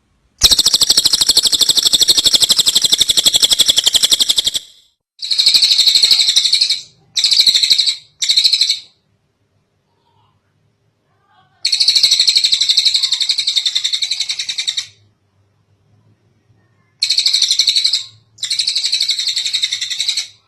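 Tengek cililin bird singing in rapid, high trills. A long phrase of about four seconds is followed by shorter phrases with brief pauses between them.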